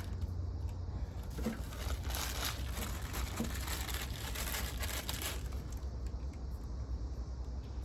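Bag of potatoes rustling and crinkling as the potatoes are handled and picked through, busiest in the first five seconds, over a steady low hum.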